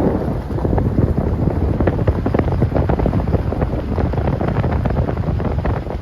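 Wind buffeting the microphone with the rumble of a moving car, a steady low roar broken by crackling gusts.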